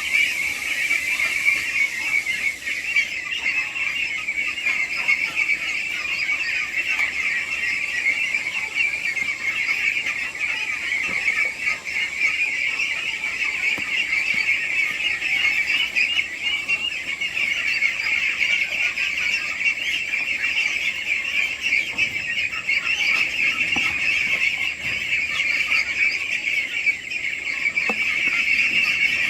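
A flock of chickens calling together: a dense, unbroken chorus of many overlapping high-pitched calls.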